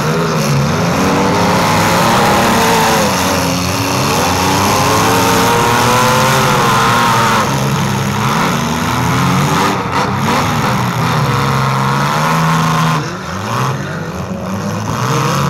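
Several compact demolition-derby cars' engines revving hard at once, their pitches sweeping up and down and overlapping. The sound is a little quieter for the last couple of seconds.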